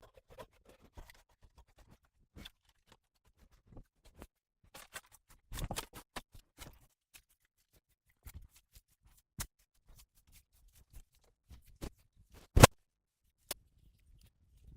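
Scattered light clicks and knocks at an irregular pace, with a busier cluster about six seconds in and one sharp, much louder knock near the end.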